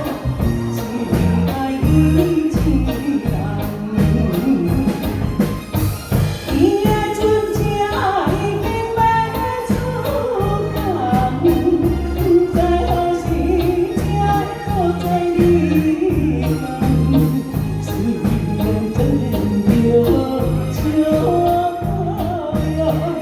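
A woman singing a Taiwanese song over instrumental accompaniment with a steady bass beat. Her voice comes in clearly about six seconds in.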